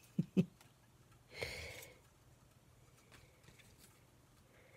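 Two quick soft thumps close together, then a sniff, followed by a few faint light ticks of handling at a craft table.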